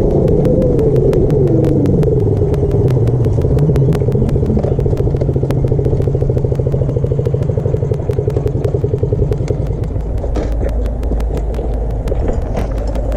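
Small motorbike engine coming off the throttle, its pitch falling over the first two seconds, then idling steadily until the idle dies away about ten seconds in.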